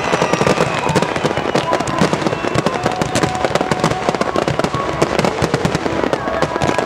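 Fireworks display going off at close range: a dense, rapid crackle of bangs and bursts, with a few thin whistling tones over it.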